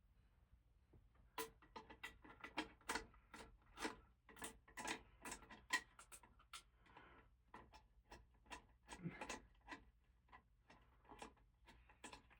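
A run of irregular light clicks and taps: a ceiling fan blade being fastened on by hand with its screws. The sound is faint, with a louder click at the very end.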